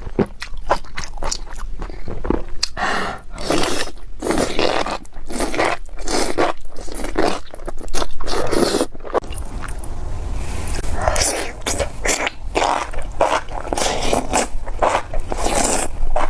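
Close-miked chewing of spicy enoki mushrooms: many quick, crunchy, wet bites and chews in an irregular rhythm, with a short lull about nine seconds in.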